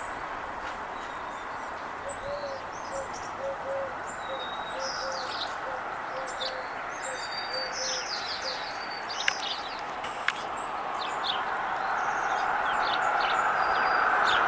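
Small birds chirping and twittering off and on, over a steady background rush that grows louder toward the end. A run of short low notes repeats about twice a second for several seconds, and two sharp clicks come near the middle.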